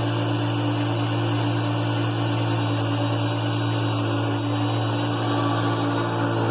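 Hoover Concept One upright vacuum cleaner running steadily while vacuuming: an even motor hum with a rushing of air.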